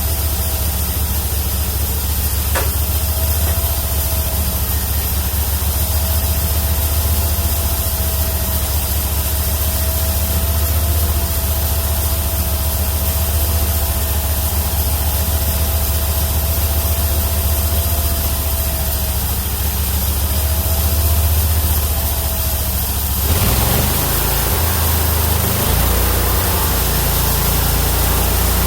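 The 31 hp engine of a homemade bandsaw mill running steadily under load while its carbide-tipped band blade saws through a Chinese toon (Cedrela sinensis) log, with a thin, steady whine over the engine. About 23 seconds in, the sound changes abruptly.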